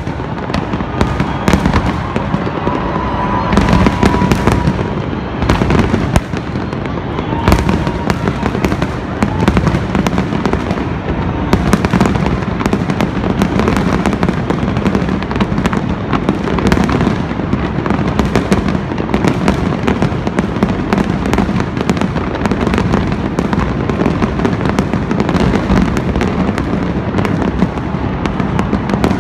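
Fireworks display: aerial shells bursting in a dense, continuous barrage of overlapping bangs, with the sharpest individual bangs in the first dozen seconds.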